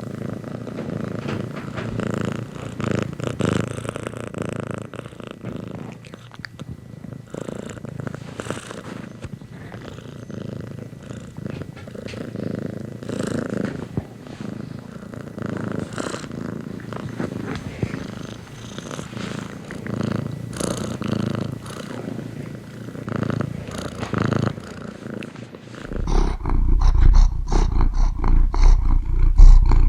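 Domestic cat purring steadily, rising and falling with each breath. Near the end the purring becomes much louder and deeper, close to the microphone.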